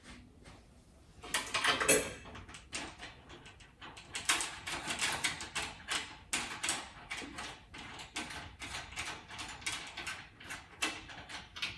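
Irregular clicking and scraping of hand tools on metal under a car, starting about a second in and going on in quick, uneven strokes.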